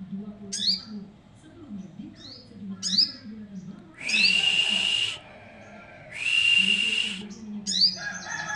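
Little spiderhunter (sogok ontong, 'sogon') in full song: sharp upward-sweeping chirps about once a second, two loud, long, steady whistled notes in the middle, and a fast rattling trill near the end. A low pulsing hum runs underneath.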